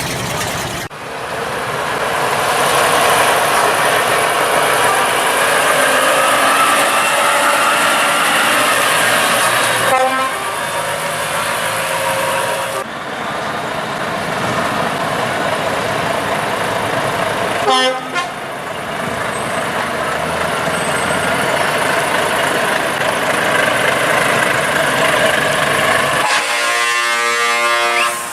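Heavy trucks running, with horn toots mixed in; the sound changes abruptly several times.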